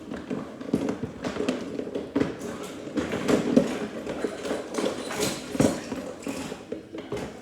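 A rapid, irregular string of sharp knocks and clatters, several a second, with the loudest strikes about three and a half and five and a half seconds in.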